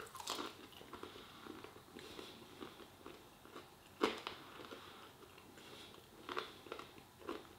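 Faint close-up chewing of a coated chicken bite: soft, wet mouth clicks, with one sharper click about four seconds in.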